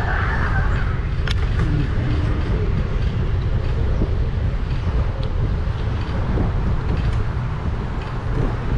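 Steady low rumble of wind on the microphone and tyres rolling on the road while riding an e-bike, with a few sharp clicks now and then.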